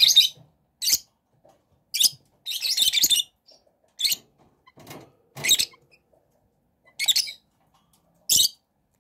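Young chicken chirping in short, high-pitched bursts, roughly one a second.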